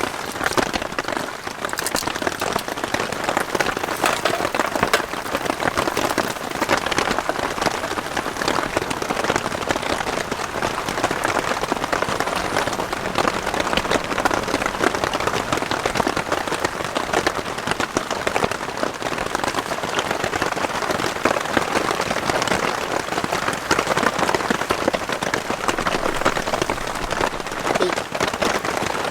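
Heavy rain falling steadily on a Hilleberg tent, heard from inside it: a dense, even patter of drops on the tent fabric.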